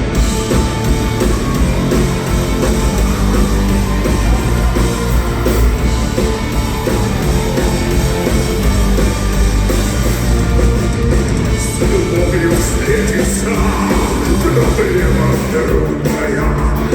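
Live rock-style band playing the instrumental introduction to the song, loud and steady, with guitar in the mix.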